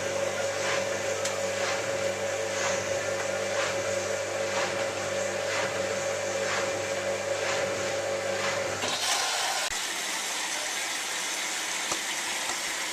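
Hotpoint 9534A washing machine's drain pump running with a steady hum and a regular pulsing, cutting off abruptly about nine seconds in. Water then hisses into the drum as the machine fills for its first rinse.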